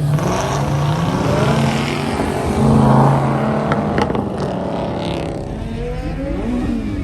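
Cars driving past with their engines running, the loudest one passing about three seconds in. A couple of sharp clicks come about four seconds in, and another engine's pitch rises and falls near the end.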